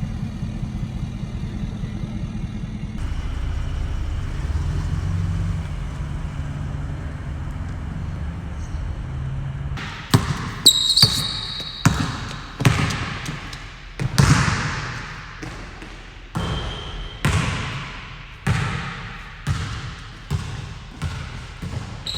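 An engine running steadily for about ten seconds, then a series of sharp knocks or bangs roughly once a second, each ringing briefly as it dies away.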